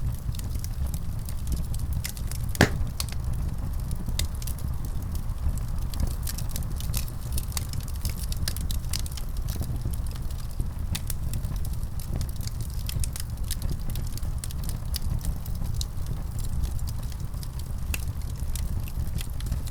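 Wood fire burning in a fireplace: a steady low rumble with scattered pops and crackles, one sharper crack about two and a half seconds in.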